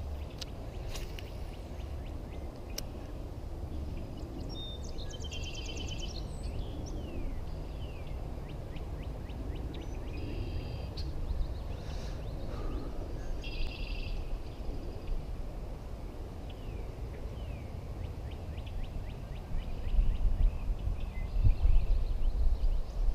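Birds calling outdoors: several short bursts of rapid trilled notes and scattered brief falling chirps, over a steady low rumble that grows louder and gusty near the end.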